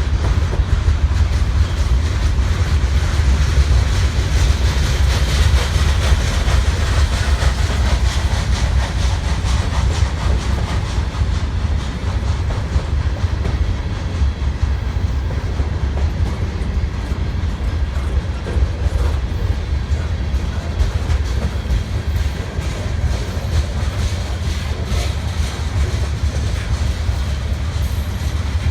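Freight train rolling past: a steady heavy rumble with wheels clicking over the rail joints as the cars go by.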